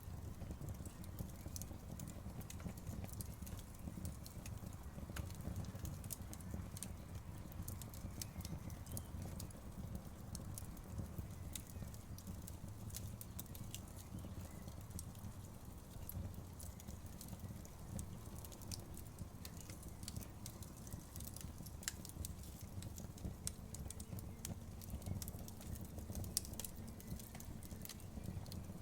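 Campfire burning, with frequent irregular sharp crackles and pops over a low, steady rumble of flame.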